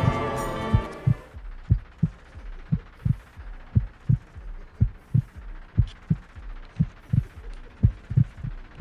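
Music fades out in the first second and gives way to a slow heartbeat sound effect: low paired thumps, lub-dub, about once a second.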